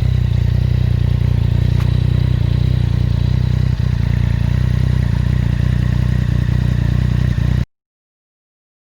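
Yamaha Niken GT's three-cylinder engine idling steadily through an aftermarket Max Torque Cans exhaust, a low, even note that cuts off suddenly near the end.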